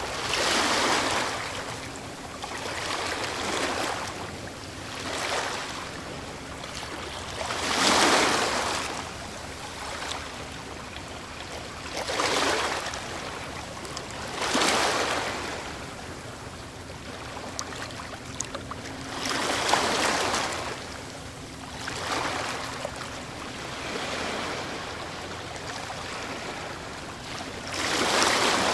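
Ocean waves breaking and washing onto the shore, each wave swelling up and fading in a rush of surf every few seconds, with the strongest breaks about eight seconds in and near the end.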